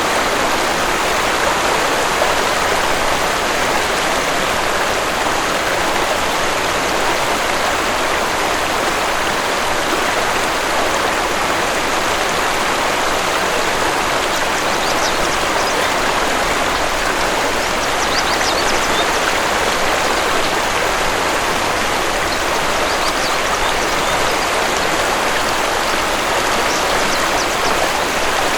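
Waterfall rushing steadily, with a few faint, brief bird chirps now and then in the second half.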